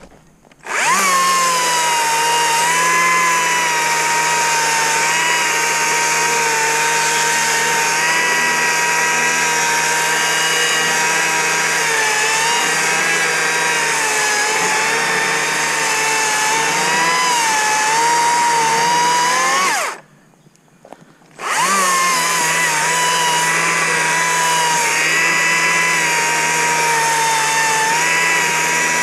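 Stihl MSA 60 C cordless battery chainsaw running and cutting wood, a steady electric motor-and-chain whine whose pitch dips slightly now and then under load. It stops for about a second and a half partway through, then starts up again.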